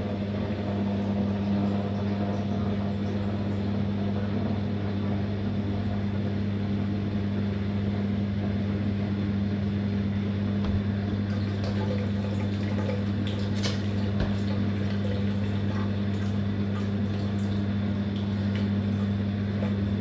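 Living & Co 5.5 kg top-load washing machine running with a steady electric hum and the sound of running water, as when it fills or pumps water.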